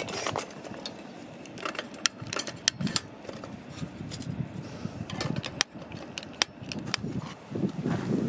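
Tent-pitching gear being handled: rustling with scattered sharp clicks and knocks.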